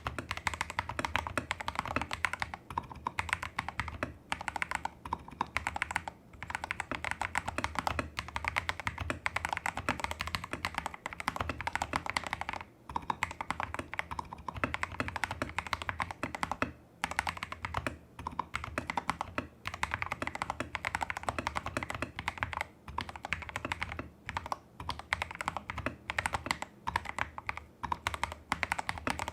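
Fast typing on a Tester68 custom mechanical keyboard with lubed Holy Panda clone tactile switches, modded stabilizers and XDA-profile keycaps. A dense run of keystrokes is broken by a couple of brief pauses.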